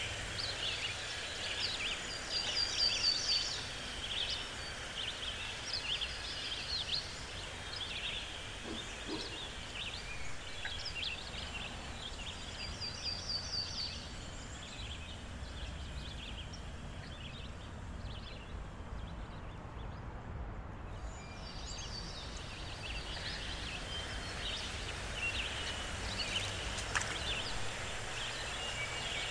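Birdsong: many short chirps and calls, with quick high trills now and then, over a steady low background noise.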